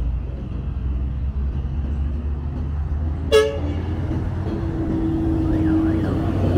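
Street traffic with engines running, and a single short toot of a vehicle horn about three seconds in. In the second half an engine's pitch rises slowly as a vehicle speeds up.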